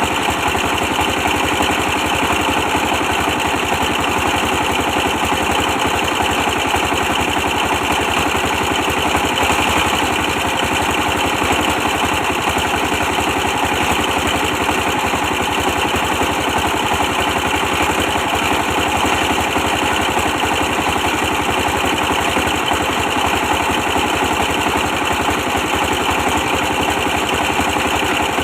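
A 24 hp stationary diesel engine runs steadily at a constant speed with a fast, even firing beat.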